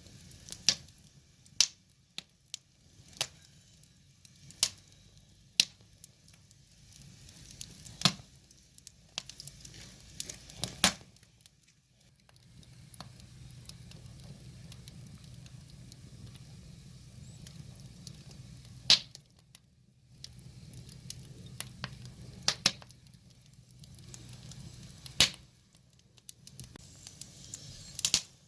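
Firewood burning, crackling with sharp pops at irregular intervals, a handful of them much louder than the rest. Under the pops runs a low steady rumble of the flames, stronger in the second half.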